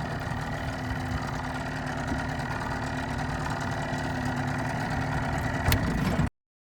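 Fishing boat's motor running steadily under way, growing slightly louder, with a sharp click near the end before the sound cuts off abruptly.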